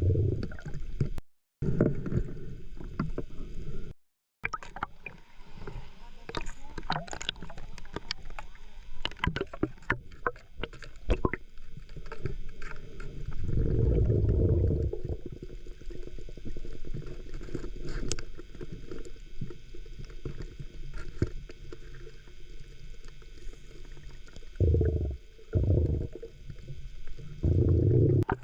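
Underwater sound on a diving camera: many sharp clicks and rattles of pebbles and shells on the seabed, with low rushing bursts about halfway through and three more near the end.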